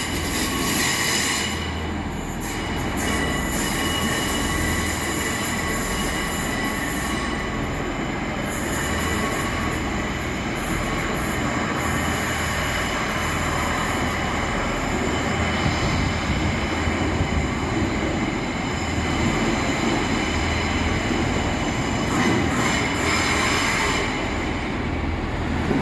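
Passenger train moving slowly through a station platform, its wheels squealing on the rails with thin, steady high-pitched tones over a continuous low rumble.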